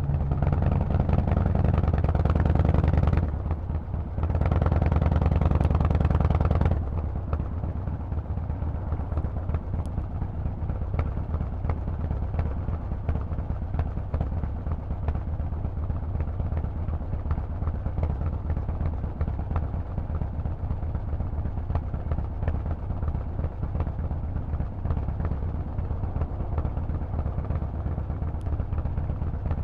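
Harley-Davidson Forty-Eight's air-cooled V-twin through a Vance & Hines exhaust under way. It pulls loud for about three seconds, dips briefly at a gear change and pulls loud again. About seven seconds in it drops to a lower, steady running for the rest.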